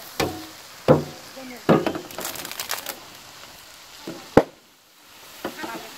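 Sliced onions and chopped green chilies sizzling in a large flat metal pan, broken by several sharp metallic knocks and clatters against the pan. The loudest knock comes a little past four seconds.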